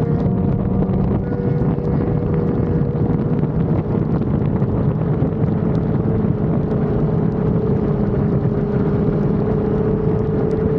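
Sport motorcycle engine running at a steady cruise, its pitch holding nearly constant with only a slow drift, under a heavy rush of wind over the microphone.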